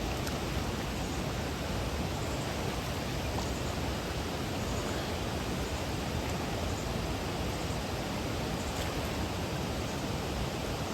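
Steady rushing of a waterfall, an even roar that does not change.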